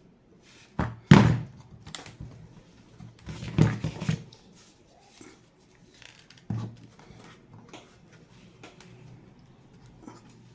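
Knocks and thunks of a clamp against the glued pieces of a broken wooden door jamb as it is put in place: the loudest about a second in, a cluster of them around four seconds, and one more about halfway through.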